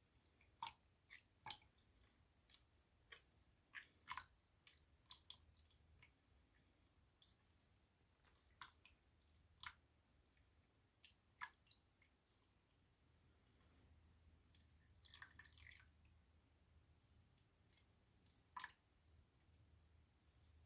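Faint water dripping and trickling from a papermaking screen of pulp just lifted from the vat, with a bird chirping repeatedly in short high notes in the background.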